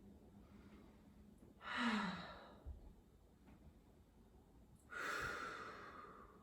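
A person's two audible exhales. The first, about two seconds in, is a short sigh with a falling voiced tone. The second, about five seconds in, is a longer breathy breath out.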